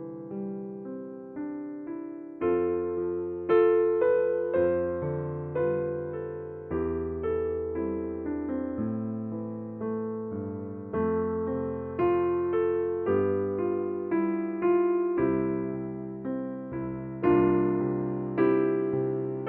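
Background music: a slow, gentle piano piece, notes struck about once or twice a second and left to ring and fade.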